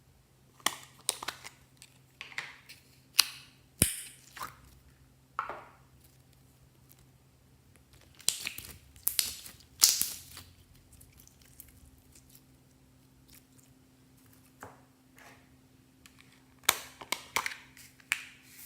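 Slime being squeezed and poked by hand, making irregular bursts of crackling and popping, with a lull partway through.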